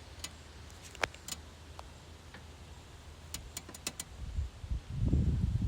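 Outdoor quiet with a few faint clicks, then, about four and a half seconds in, gusting wind starts buffeting the microphone with an irregular low rumble.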